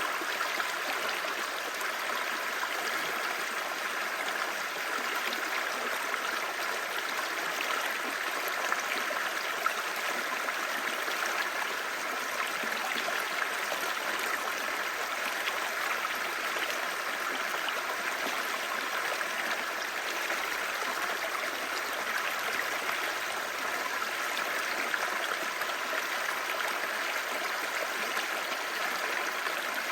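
Clear stream babbling: a steady rush of running water.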